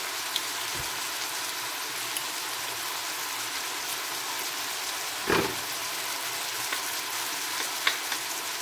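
Diced vegetables and tomatoes sizzling steadily in oil in a frying pan. There are a few faint clicks, and one short dull knock about five seconds in.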